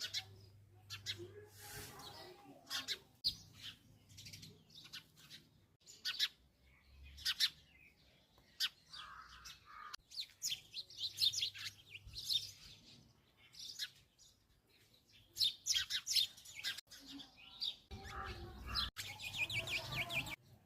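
Sparrows chirping: many short, high chirps in irregular runs, busier and denser near the end.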